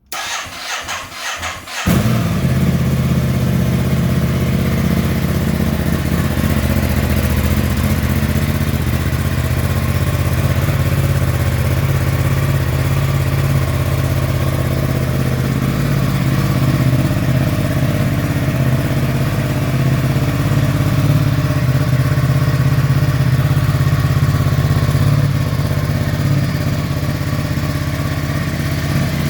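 Ducati Multistrada 1260S's 1262 cc Testastretta DVT V-twin engine being started for the very first time: the electric starter cranks for about two seconds, then the engine catches and settles into a steady idle.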